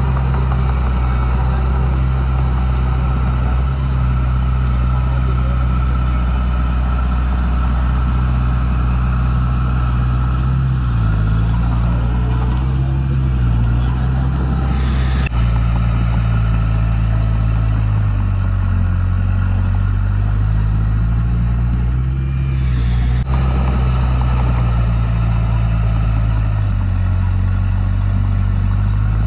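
Heavy diesel engine of earthmoving machinery running under load, its pitch rising and falling as the machine is worked, with two abrupt changes in the engine sound.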